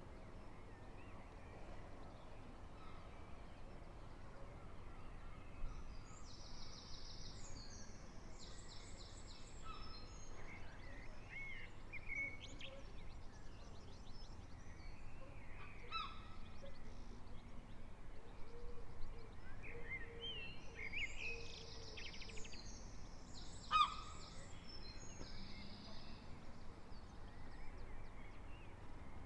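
Songbirds singing in the early-morning chorus: two bouts of varied song phrases, fluty sliding notes mixed with rapid high twittering trills, over a faint steady low hum.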